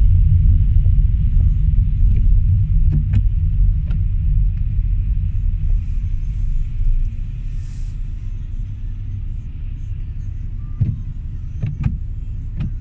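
Low rumble of a car being driven, engine and tyre noise heard from inside the cabin, getting gradually quieter. A few sharp light clicks come through, two early on and three near the end.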